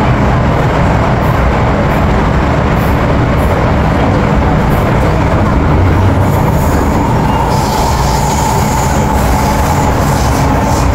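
MTR M-Train electric multiple unit running at speed, heard from inside the car: a steady, loud rumble of wheels and traction equipment. About six seconds in, a whine comes in, and a hiss above it grows brighter toward the end.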